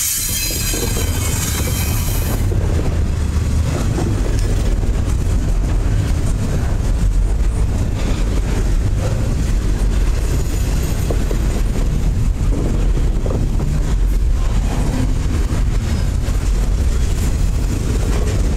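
Double-stack intermodal freight cars rolling past close by: a steady heavy rumble with clicks of steel wheels over the rail, and a high hiss in the first two seconds.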